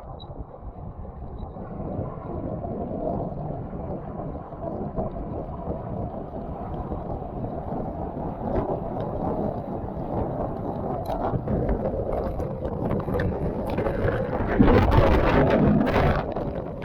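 Waterfall water rushing, heard muffled and low, with a louder, fuller surge of noise near the end.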